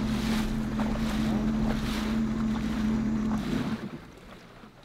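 A Sea-Doo RXT 300 jet ski's supercharged three-cylinder Rotax engine idles steadily, then shuts off about three and a half seconds in. After that only faint wind and water lapping remain.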